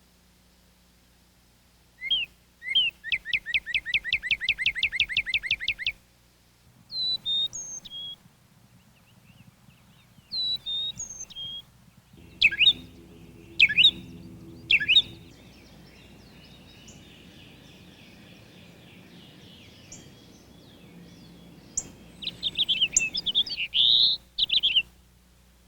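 Backyard songbirds singing and calling. A rapid trill of quick falling notes lasts about four seconds near the start. Scattered short whistled notes and sharp calls follow, and a quick warbling phrase comes near the end.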